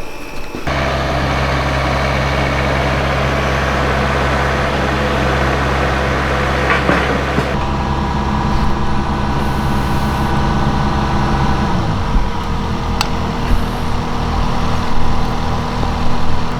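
A heavy engine running steadily at a constant speed, then dropping to a lower, uneven idle about twelve seconds in. A sharp click sounds shortly after.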